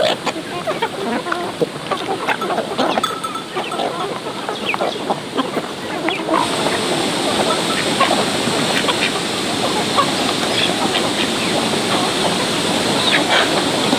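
Black chickens, two cocks and two hens, clucking with many short calls. About six seconds in, a steady rushing noise like water joins them.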